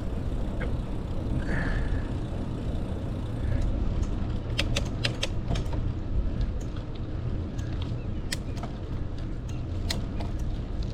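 Riding a bicycle: a steady low rumble of wind on the microphone and tyres rolling, with scattered sharp clicks from about four seconds in.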